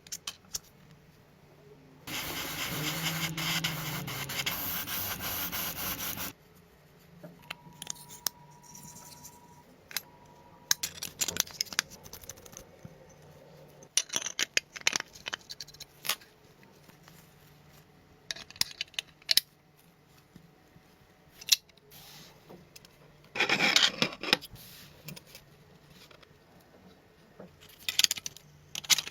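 Small parts of a toy car being handled and worked on the bench: scattered clicks, taps and short scrapes. About two seconds in, a loud, even hiss of noise starts and runs for about four seconds before stopping abruptly.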